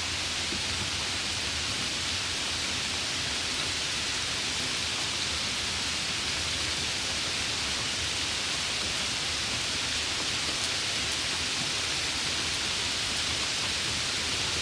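Steady rain falling, an even unbroken hiss without distinct drops or thunder.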